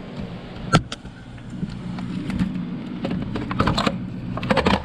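A steady low hum with a sharp click about three quarters of a second in, then bursts of quick clicks and knocks in the second half, typical of metal engine parts and tools being handled.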